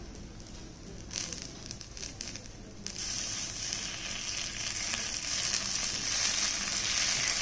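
Egg and vegetable omelette mixture sizzling in a hot oiled pan as it is spooned on and spread; the sizzle starts about three seconds in and holds steady. Before it come a few light clicks of the steel spoon.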